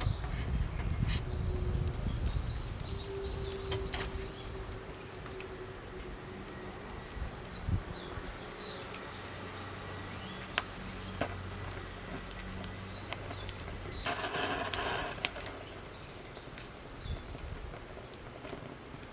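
Firewood burning in a campfire stand, crackling with sharp, irregular pops. A short rushing noise comes about three-quarters of the way through.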